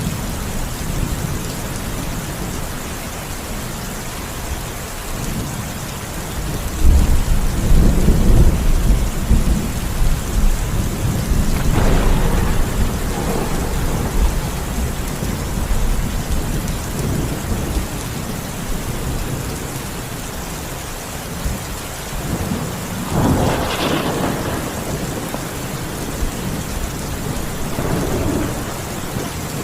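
Steady rain with rolling thunder. A deep rumble comes in about a quarter of the way through and rolls on for several seconds, with sharper crackling peaks near the middle and again near the end.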